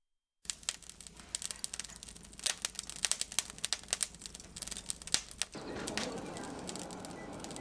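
A quick, irregular run of sharp clicks and rustles, which gives way about five and a half seconds in to a steady hiss.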